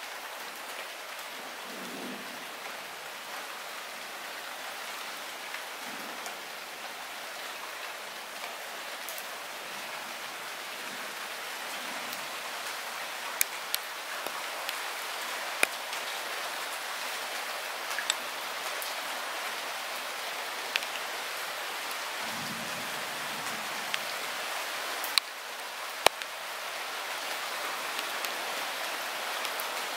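Light rain falling steadily, with a few sharp, close drops striking a surface now and then; the rain grows slightly louder through the stretch.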